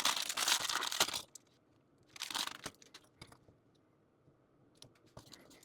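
Plastic model-kit packaging being handled, crinkling and tearing in two bursts, one in the first second and a shorter one about two seconds in, followed by a few faint clicks near the end.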